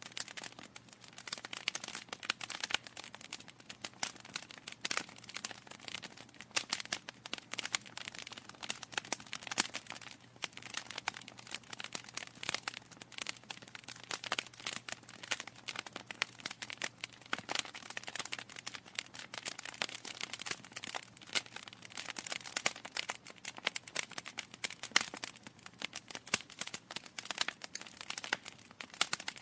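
Wood fire crackling steadily in a fireplace, with a dense run of irregular snaps and pops from the burning logs.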